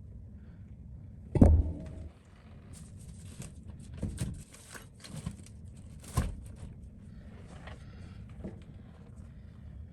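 Small repair tools clicking and scraping as old adhesive is cleaned off an iPhone 14 Pro's OLED display, with one heavy thump about a second and a half in, over a low steady hum.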